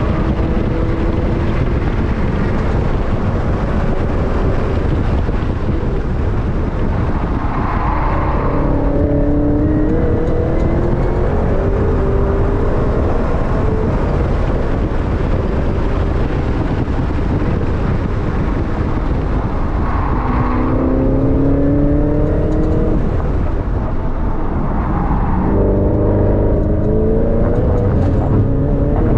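Supercharged 6.2-litre LT4 V8 of a Camaro ZL1 1LE heard from inside the cabin at speed on track. The engine pulls up in pitch three times, at full throttle, with lifts and braking between. Heavy wind and tyre noise runs under it throughout.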